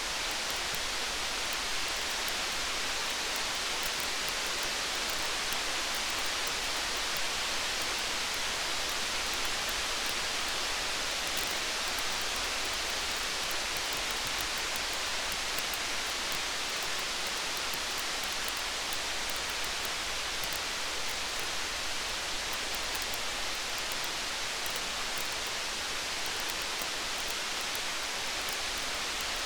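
Steady rain hiss with faint, scattered crackles from a wood campfire.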